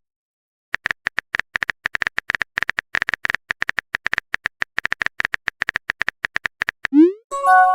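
Phone keyboard typing sound effect: rapid clicks, several a second, for about six seconds. Near the end comes a short rising bloop and then a held chime, the sounds of a text message being sent and received.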